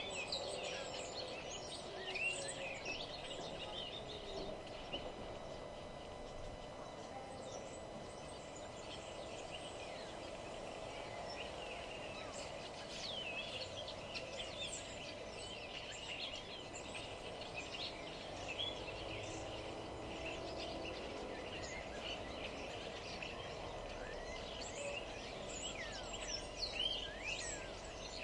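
A chorus of small songbirds chirping and singing, many short quick calls overlapping, over a steady low background hum.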